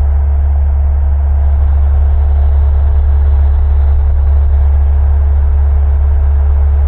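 Single-engine Cessna's piston engine and propeller droning steadily in the cockpit, a deep even hum with no change in pitch.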